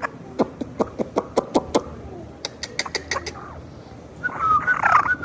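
Red factor African grey parrot making a rapid series of clicks, about five a second, for the first three seconds. About four seconds in it gives a loud warbling whistle.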